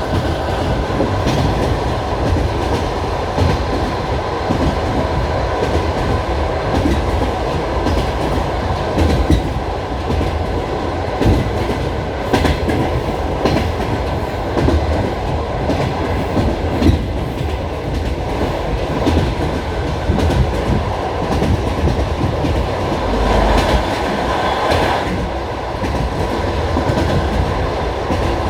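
Passenger train carriage running on the rails, heard from inside the car: a steady rumble with the wheels clacking over rail joints.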